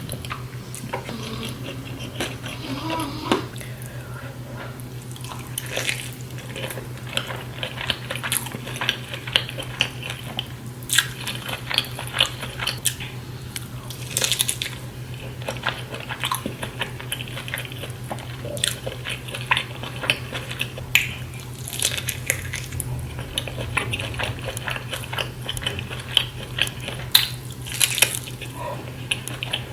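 Close-miked mukbang eating of a seafood boil: wet chewing and biting with many sharp clicks and crackles throughout.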